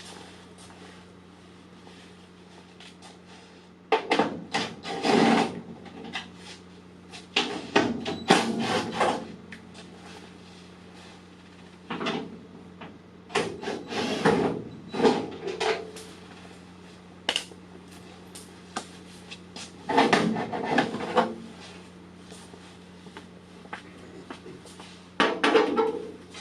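Bursts of clattering and scraping from tools and sheet metal being handled while a bolted-on fender is taken off, recurring every few seconds, with a sharp click about two thirds of the way through. A steady low hum runs underneath.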